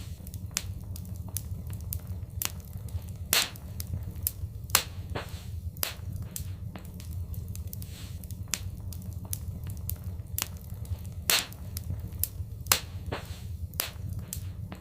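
Fireplace fire crackling: irregular sharp pops and snaps, a few much louder than the rest, over a steady low rumble of the flames.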